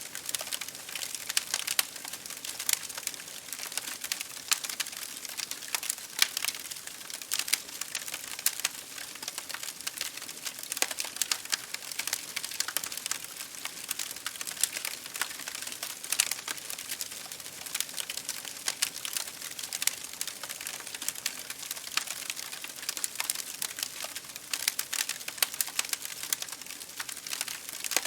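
Wood fire crackling in a fireplace, with frequent irregular sharp pops and snaps, over a steady hiss of rain falling against a window pane.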